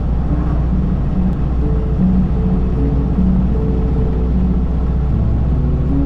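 1932 Ford Model B's four-cylinder engine running steadily with road rumble inside the cabin while driving, and soft background music with a slow melody playing over it.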